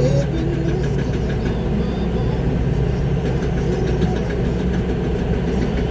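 Concrete mixer truck's diesel engine running steadily, heard from inside the cab.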